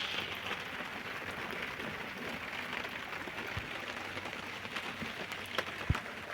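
Steady rain falling, an even hiss, with a few short knocks and one dull thump near the end.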